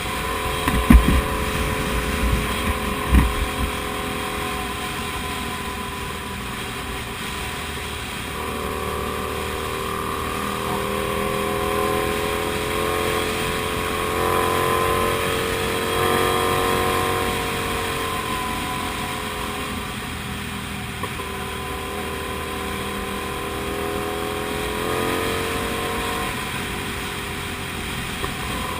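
Comet GTR250 motorcycle's V-twin engine running under way, its note rising and falling slowly with the throttle. A few short thumps come in the first few seconds.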